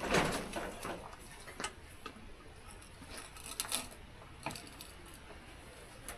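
Scattered sharp knocks and clicks from handling work: a loud knock at the very start that fades quickly, then a few lighter clicks and taps spread over the next seconds. No engine or saw is running.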